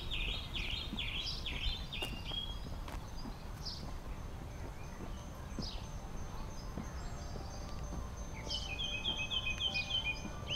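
Birds chirping and calling over a steady low background rumble, with a burst of quick chirps at the start and a fast run of repeated notes near the end.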